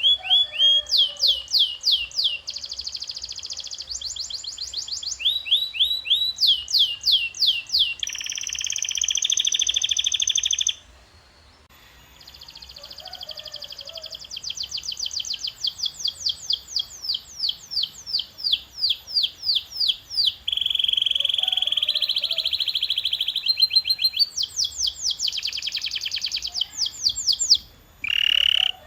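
Canary singing: phrases of rapid repeated notes, each run made of quick downward-sweeping whistles, alternating with buzzy rolls. The song breaks off briefly about eleven seconds in and again near the end.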